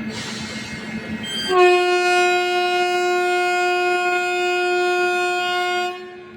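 Indian Railways WAP-7 electric locomotive's horn: one long, steady blast of about four and a half seconds, starting about a second and a half in and cutting off near the end. A train's rumble comes before it.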